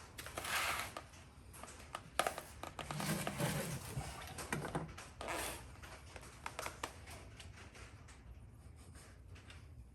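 Hand-work noises: scattered clicks, taps and short rustling scrapes from fuel line and fittings being handled, busiest in the first half, over a low steady hum.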